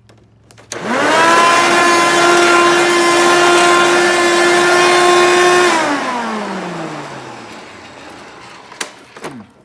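Hoover Turbo Power 6000 Power Drive vacuum cleaner switched on, spinning up quickly to a loud, steady high whine, then switched off about five seconds later and winding down in pitch as it coasts to a stop. The owner says it sounds horrible and suspects the motor needs replacing.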